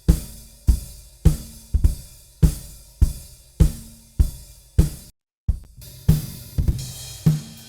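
Sampled acoustic drum kit, a 1960s Japanese stencil kit, playing back a steady pop groove at 102 BPM in EZDrummer 3: kick, snare, hi-hat and cymbal hits about every 0.6 seconds. A little after five seconds in the sound cuts out completely for about a third of a second, then the groove resumes with a different mix.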